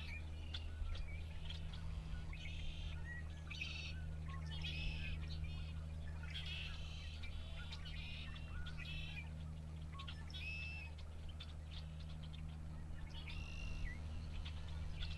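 A flock of red-winged blackbirds calling and singing, with many short trilled phrases repeating and overlapping, over a steady low hum.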